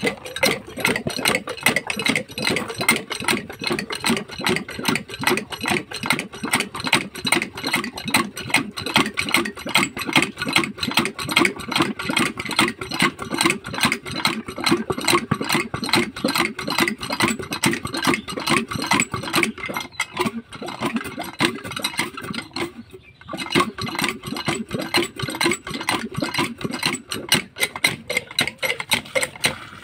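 Field Marshal 8 HP single-cylinder diesel pump engine running with a steady, rapid chugging beat. It breaks off briefly about three-quarters of the way through.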